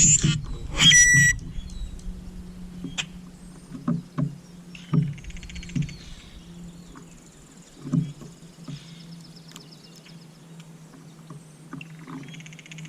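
Birds calling in short, buzzy bursts, the clearest about a second in, over a steady low hum, with scattered sharp clicks.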